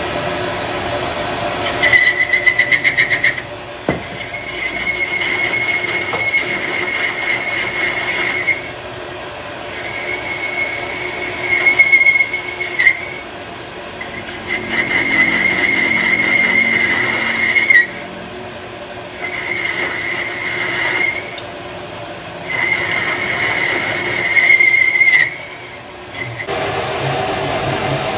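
A power tool working metal in about six short passes, each with a steady high whine that starts and stops abruptly, over a running machine background.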